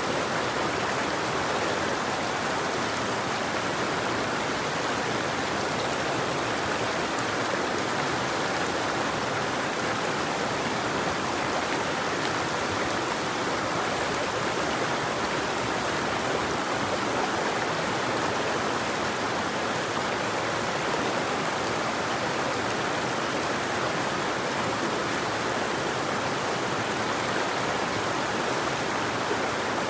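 River water flowing: a steady, even rush with no birdsong.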